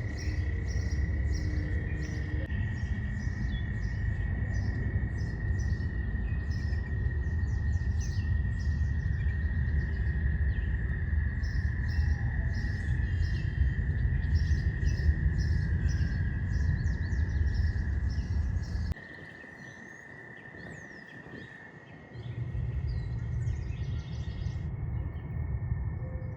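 Small songbirds chirping and singing in short repeated phrases over a steady low rumble and a constant high-pitched drone. The rumble cuts out abruptly for about three seconds late on, then returns.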